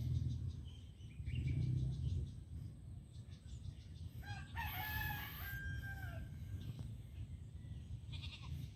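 A rooster crows once, a long pitched call about halfway through. Low rumbling, loudest in the first two seconds, lies under it.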